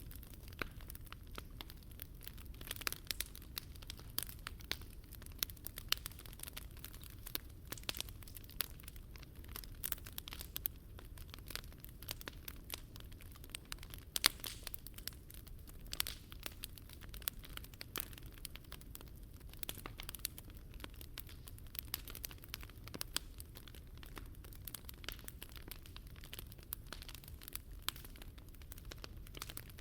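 Wood fire burning in a Picogrill 398 fire stand, crackling and popping with dense, irregular sharp snaps over a low steady rumble.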